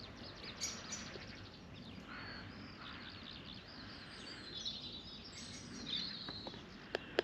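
Small songbirds chirping and twittering, with rapid high notes coming thick and fast over a steady outdoor background hiss.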